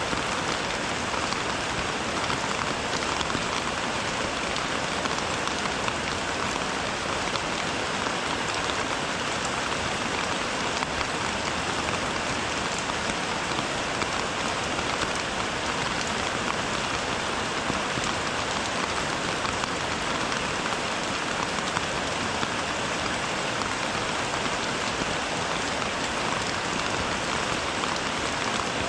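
Steady rain falling: an even, unbroken hiss of many drops that holds at the same level throughout.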